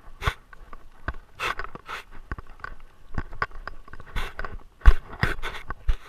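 Close-up noises from a Great Dane wearing a body-mounted camera: irregular clicks, crunches and scrapes, with a sharp knock a little under five seconds in.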